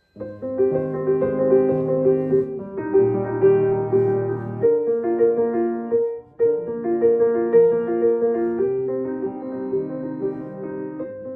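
A piano played with chords and a melody line, stopping abruptly for a moment about six seconds in and then going on.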